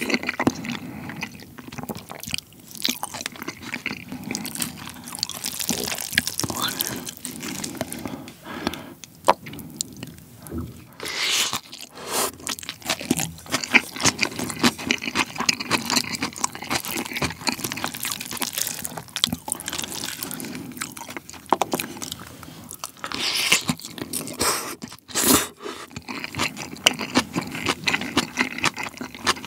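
Close-miked chewing and crunching of yukhoe bibimbap: rice mixed with raw beef tartare, crisp vegetables and flying fish roe. A plastic spoon scrapes and stirs in a plastic bowl between mouthfuls.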